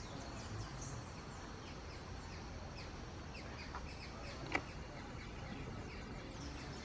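Small birds chirping in the forest canopy: many short, high, falling chirps repeating throughout over a low steady outdoor hum, with one sharp click about four and a half seconds in.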